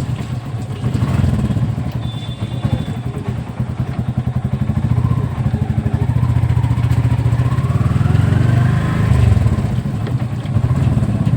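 A small vehicle engine running close by with a steady low pulsing. A faint whine rises in pitch about seven to nine seconds in.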